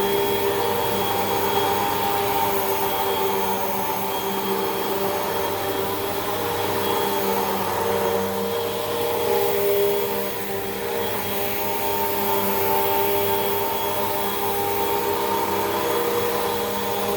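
Hoover WindTunnel 2 Rewind upright vacuum cleaner running steadily while vacuuming carpet: a constant motor drone with a high whine, dipping slightly in level about ten seconds in.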